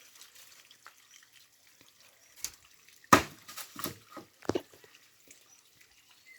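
Water dripping at a small spring among rocks: a scatter of separate sharp drops or knocks over a faint background, the loudest a little after three seconds in.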